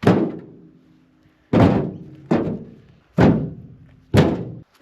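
Pieces of cut firewood tossed onto a load one at a time: five heavy thunks about a second apart, each with a short ringing tail.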